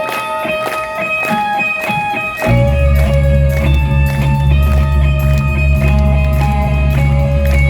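Rock song intro: a guitar plays a repeating picked riff alone, then about two and a half seconds in the bass and full band come in under it and the music gets louder.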